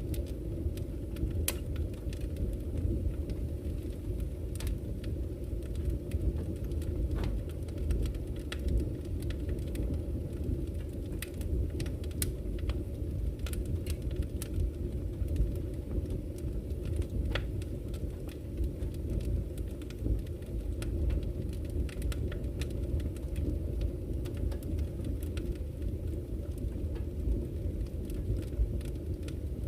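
Campfire crackling, with irregular sharp pops and snaps, over the steady low rush of a flowing river.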